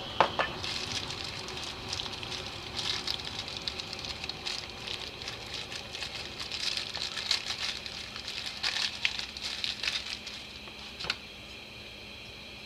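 Carburetor parts being handled and worked by hand: a sharp click at the start, then a long run of irregular small clicks, scrapes and rustles, with one last click near the end.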